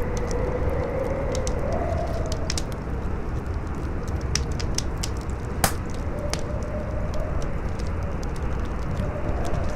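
Campfire crackling and popping with many small sharp snaps and one loud pop a little past halfway, over steady howling wind whose pitch wavers up and down.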